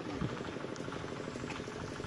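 A small car's engine idling steadily, with a low, even running hum.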